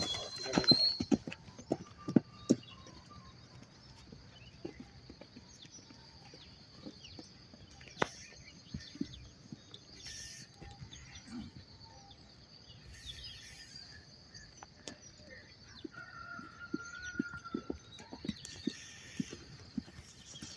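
Horse's hoofbeats, loudest in the first few seconds and fainter after, with a bird call near the end.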